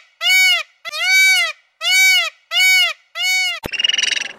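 A peacock calling over and over: five loud, drawn-out cries in a row, about one every 0.7 s, each rising and falling in pitch. Near the end a click cuts them off and a rapid buzzing train of dolphin pulses begins.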